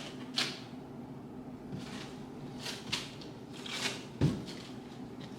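Handling noises from parts of a swivel chair being moved and fitted together: several short rustles and scrapes, then a single dull thump a little past four seconds in, the loudest sound.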